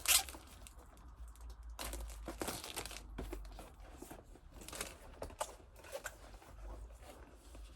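Packaging of a boxed phone gimbal being opened by hand: crinkling and tearing in irregular bursts, loudest about two seconds in.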